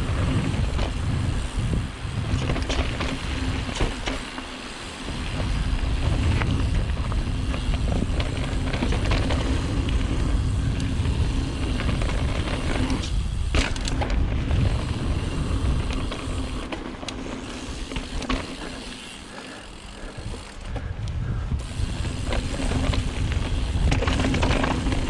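Mountain bike riding a dirt trail: wind rushing over the microphone and a steady rumble from the tyres and frame, with scattered sharp knocks and rattles as the bike hits bumps. The noise eases twice, briefly.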